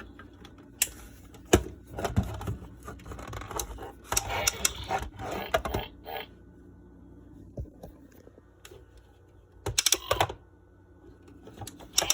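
Hard plastic toy being handled and pressed: scattered clicks and knocks, with a denser patch of clatter and a short pitched sound about four seconds in.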